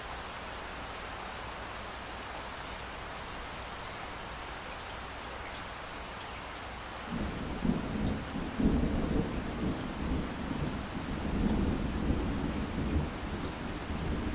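Steady rainfall, with a long, low, uneven rumble of thunder setting in about halfway through, louder than the rain.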